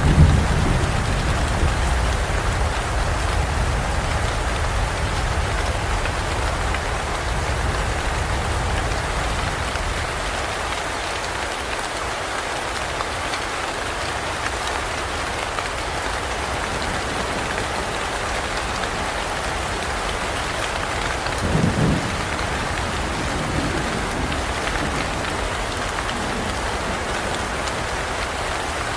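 Steady heavy rain falling, with the tail of a thunder rumble dying away over the first several seconds. About 22 seconds in there is a short, low rumble.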